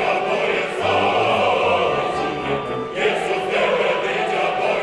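Opera chorus singing, full-voiced sustained phrases with brief breaks between them.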